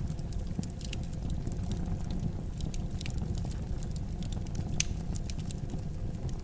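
Wood fire burning in a fireplace: irregular crackles and pops over a steady low rumble of the flames, with one sharper pop near the end.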